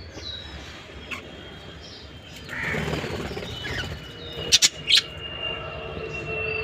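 Pet cage birds, budgies and finches, calling with short chirps, with a harsher noisy call near the middle. Three sharp loud clicks come close together about two-thirds of the way through.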